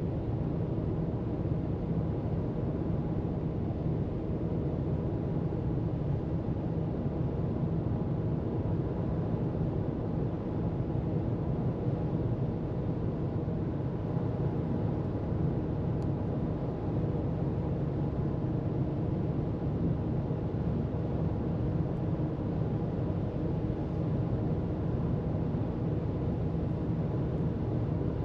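Car cruising at freeway speed: steady low road noise from the tyres and engine, even and unchanging throughout.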